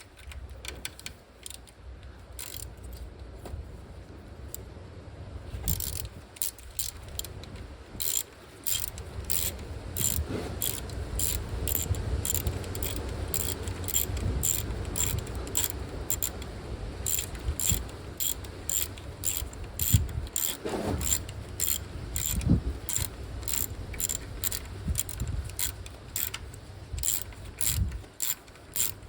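Hand ratchet wrench clicking in repeated strokes, about two clicks a second, with low knocks and handling sounds under it.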